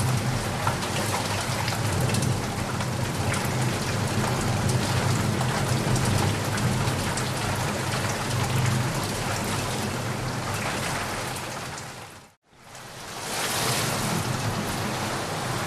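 Heavy rain falling steadily, with a low rumble of thunder underneath. About twelve seconds in the sound fades out briefly, then returns as rain alone.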